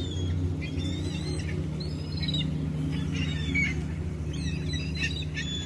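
Gulls calling: a run of short, high squawking calls, several to a second apart, over a steady low hum.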